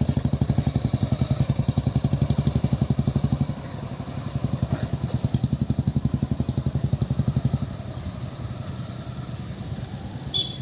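Diesel locomotive engine running with a rapid, regular chugging beat of about ten pulses a second, which drops in loudness twice, about a third and about two thirds of the way through.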